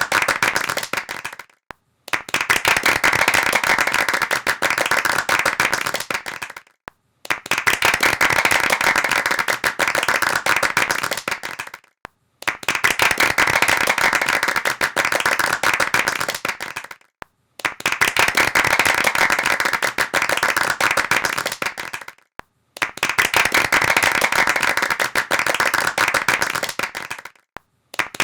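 Applause: dense hand clapping in repeated bursts of about four to five seconds, each cut off by a brief silence before the next begins.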